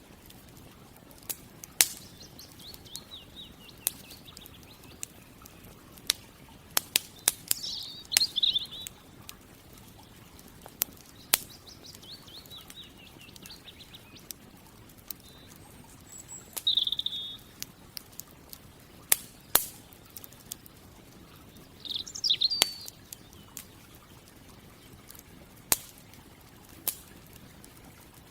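Campfire crackling with scattered sharp pops, the loudest sounds, while small birds sing and call in short phrases every few seconds, some as quick descending trills.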